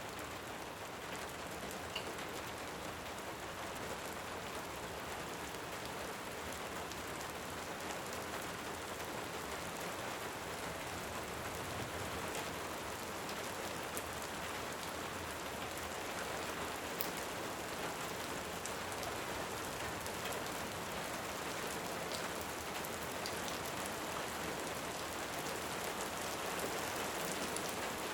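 Steady rain, with a few faint crackles of a wood fire scattered through it.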